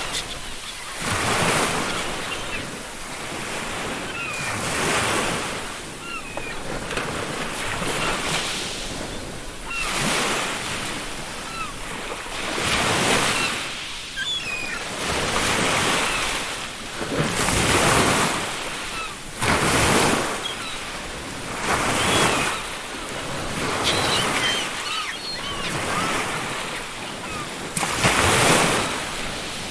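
Ocean waves breaking and washing up a beach, the surf swelling and falling every few seconds, with faint calls of seagulls in the background.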